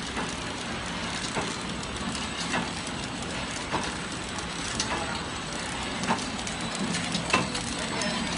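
KT-250 horizontal flow packing machine running: a steady mechanical hum and whir with a sharp clack repeating about every 1.2 seconds, plus lighter ticks between.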